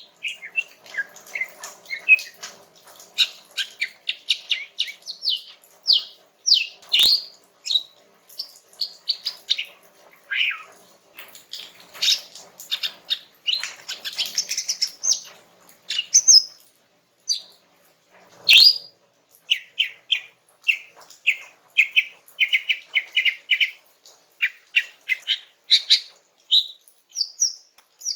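Female green leafbird (cucak ijo) singing a relaxed, chattering song: quick chirps, short trills and slurred whistles in rapid runs, with two sharp clicks, one about a quarter of the way in and one past the middle.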